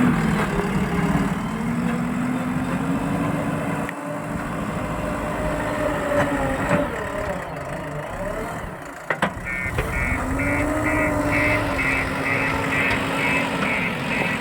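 JCB machine's diesel engine running, its pitch rising and falling as it is revved. From about ten seconds in, a reversing alarm beeps rapidly and regularly over it.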